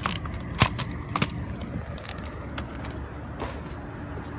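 A car engine idling with a low steady rumble, with a few sharp clicks and knocks in the first second and a half.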